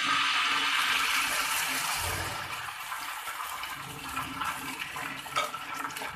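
Rice and urad dal batter going onto a hot oiled tawa: a sudden loud sizzle that slowly dies down, with scattered crackles toward the end.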